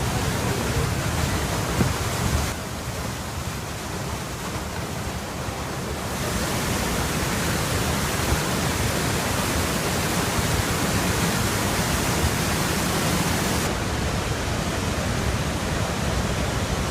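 Steady rushing of fast-flowing floodwater, dropping in level about two and a half seconds in and rising again at about six seconds.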